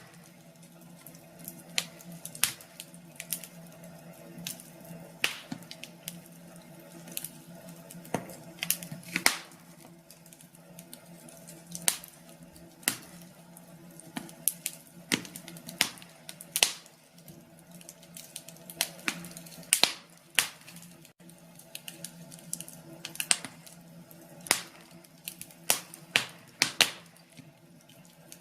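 Wood fire crackling: irregular sharp pops and snaps, sometimes in quick clusters, over a steady low hum.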